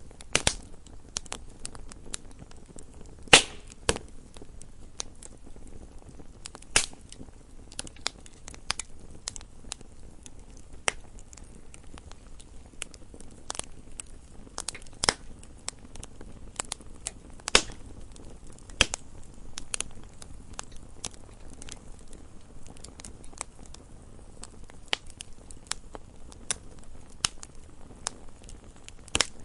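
Wood fire in a fireplace crackling and popping, with sharp pops at irregular intervals over a soft steady hiss; the loudest pop comes about three seconds in.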